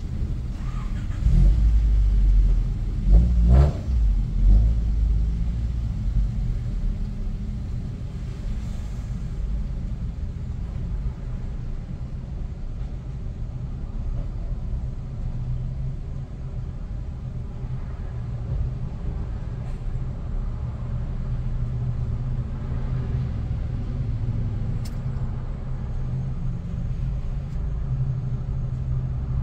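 A motor engine running steadily with a low hum, with louder rumbling and a few bumps in the first few seconds.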